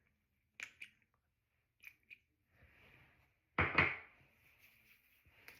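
Skincare bottles being handled: a few light clicks of caps or a dropper, a soft brushing sound, and a louder knock of a bottle set down about three and a half seconds in.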